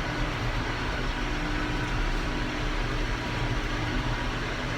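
Farm tractor engine running steadily, a constant low drone with a faint steady whine over it.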